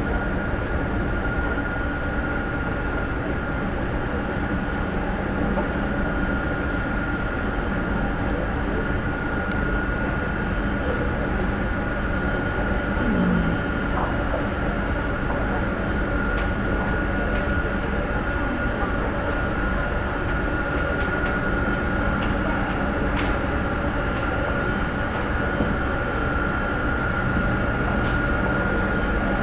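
Jet aircraft running: a steady low rumble under a constant high whine that holds one pitch throughout.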